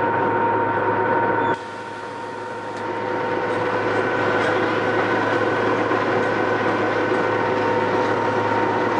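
A miniature amusement-park train running, its engine giving a steady hum with several fixed whining tones. The sound drops sharply about a second and a half in, then builds back up over the next second or so and holds steady.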